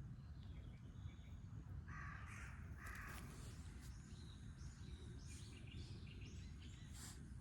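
Bird calls: two short, harsh calls about two and three seconds in, then scattered high chirps, over a steady low background rumble.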